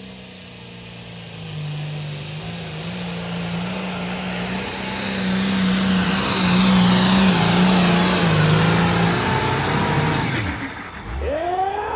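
Hot Farm class pulling tractor's diesel engine at full throttle, pulling the sled down the track. The engine tone climbs in steps with a rising high whistle over it, then cuts off suddenly near the end.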